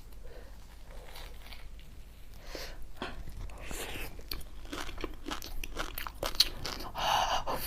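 Close-miked chewing of small fish roe, still partly frozen: many small sharp crunches, denser and louder near the end.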